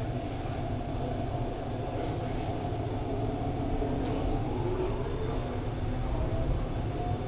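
Cabin noise of an MTR East Rail Line R-Train electric multiple unit running along the line: a steady low rumble of wheels on track with faint motor whine tones, a few of them rising slightly about five seconds in.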